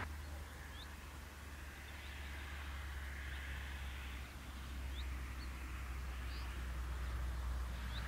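Songbirds giving short, high, rising chirps, scattered about one a second, over a steady low rumble.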